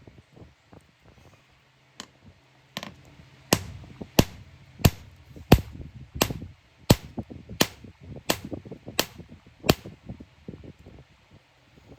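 Hammer blows on iron, struck in a steady rhythm of about three blows every two seconds, a dozen or so in all. Each blow gives a sharp ring, and the blows stop a couple of seconds before the end.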